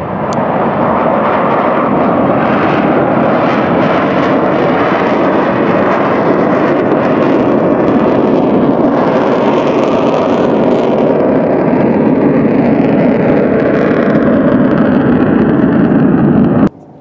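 Loud, steady engine noise of an aircraft flying low past the crowd, building over the first second and holding, then cut off abruptly near the end.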